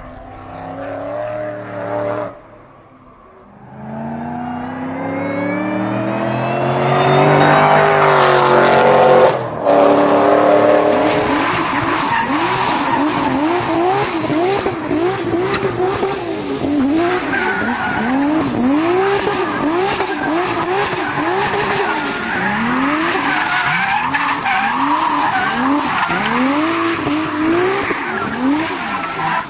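A car engine revving hard, its pitch climbing steadily and then breaking off sharply for a moment. After that the revs swing up and down again and again with throttle blips, and tyres skid and squeal, as when a car is drifting.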